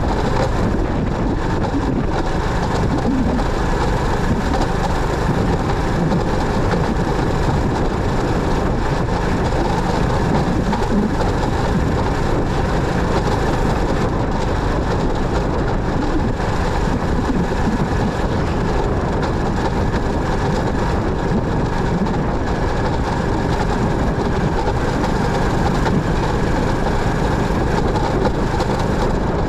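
Steady noise of a motorcycle being ridden: the engine running under the constant rush and rumble of wind and road.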